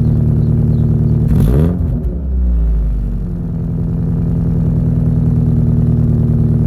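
Subaru Outback boxer engine idling through a Kakimoto Jasma-type aftermarket exhaust, still warming up after a cold start. About a second and a half in, a quick throttle blip sends the revs up and back down, and then it settles into a steady idle.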